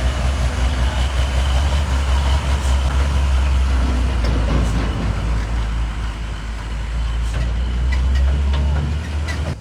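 Large truck engine running under load with a deep, steady low rumble, dropping away abruptly near the end.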